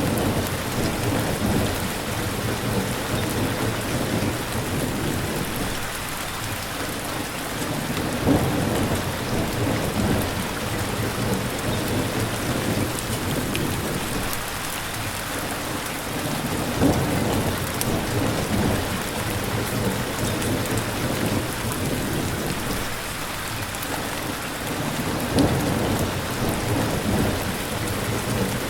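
Steady rainfall with low rolls of thunder swelling up about every eight and a half seconds.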